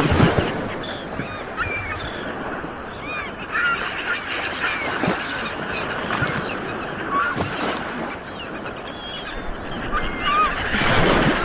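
Sea waves washing onto a shore, surging several times, with many seagulls calling over them in short, rising and falling cries.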